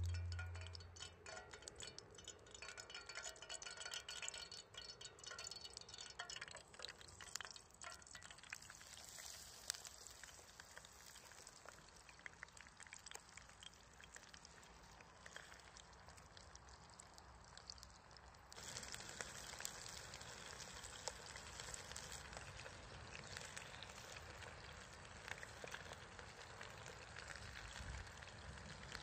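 Chicken frying in a pan over a wood fire: a faint, steady sizzle with small crackles, a little louder from about two-thirds of the way through.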